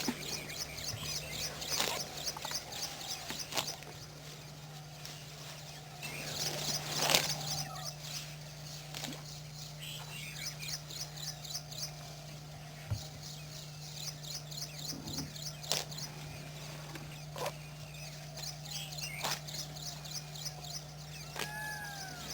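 Wild birds chirping and calling, with repeated runs of rapid high chirps and a few arching calls near the end, over a steady low hum.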